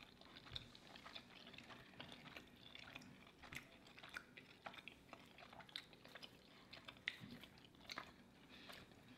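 Faint chewing of soft mac and cheese, with scattered small wet mouth clicks.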